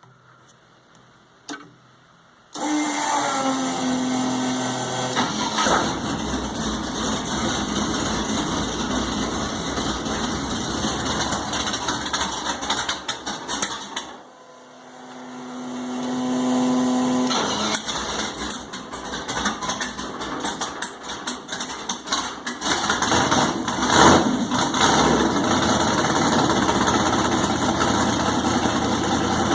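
A race car's engine is cranked and catches about two and a half seconds in. It runs, then dies about fourteen seconds in, is cranked again for a few seconds and restarts, then keeps running with a sharp blip of revs. This is the first start after a new fuel pump, fuel lines and wiring.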